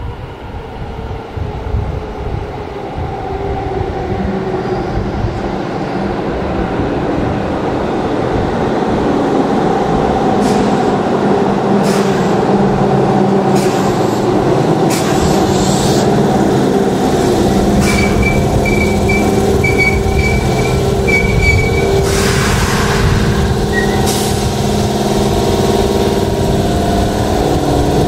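Keihan 2600-series electric train running into a station platform, its running noise growing louder as it nears. Wheels clack over rail joints, then a high, stuttering brake squeal and a short hiss of air come as it slows.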